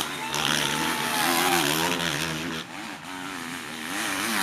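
Motocross bike engines revving up and down as they race, the pitch rising and falling over and over, dropping off briefly near the middle.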